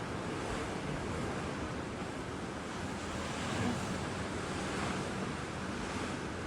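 Ocean surf washing steadily onto the shore, with some wind.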